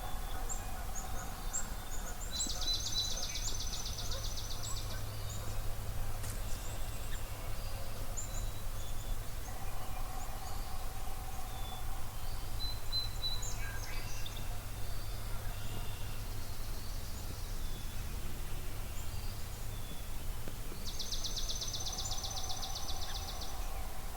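Dawn birdsong over a marsh: a high, very fast trill about two seconds in and again near the end, short scattered chirps, and a lower drawn-out call that comes and goes, over a steady low rumble.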